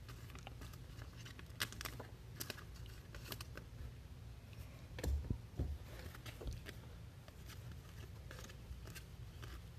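Trading cards being handled by hand: faint scattered clicks and rustles as cards are flipped and slid, with a couple of soft knocks about five seconds in, over a low steady hum.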